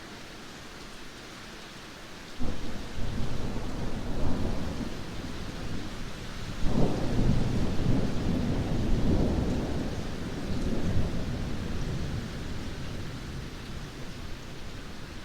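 Heavy rain falling steadily, with thunder: a clap breaks about two and a half seconds in, a louder one follows about four seconds later, and the rumble slowly dies away.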